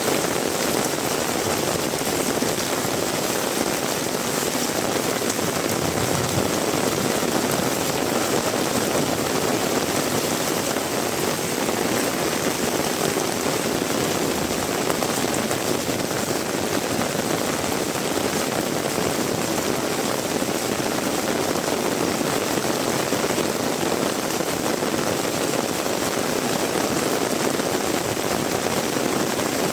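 Heavy rain falling steadily, an even unbroken hiss and patter of rain on surfaces.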